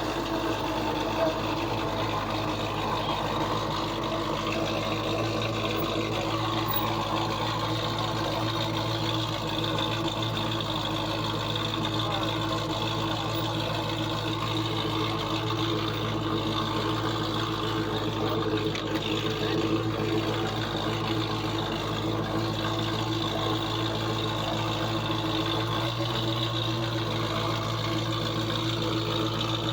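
A motor running steadily at one constant pitch, with no change in speed, over outdoor background noise.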